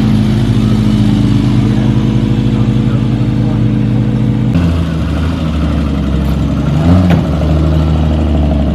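Vintage car engines idling with a steady low note. A little past halfway the sound changes abruptly to a different engine note, and about seven seconds in an engine is briefly revved up and back down.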